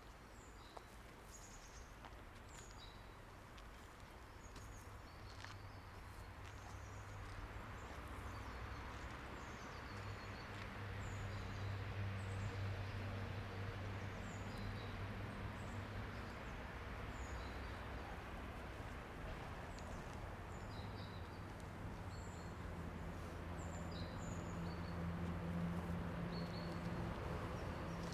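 Small birds chirping, with many short high calls scattered throughout. Under them runs a low hum with a rushing noise that grows steadily louder over the first half and stays up.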